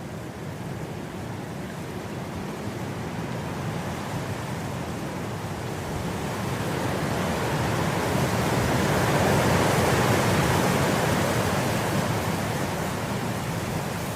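Wind blowing through grass, a steady rush that swells to a stronger gust midway and then eases off.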